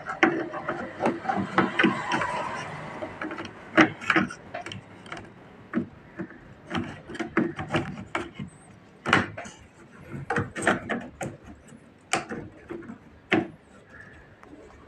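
Workbench handling of an opened audio mixer: irregular clicks, knocks and scraping as parts and tools are moved and fitted. The scraping is densest in the first few seconds, then the sharp knocks come at uneven intervals.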